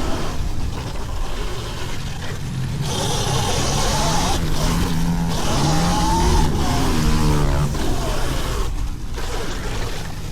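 Dirt bike motor rising and falling in pitch for several seconds in the middle, over a steady rush of low rumbling noise like wind on the microphone.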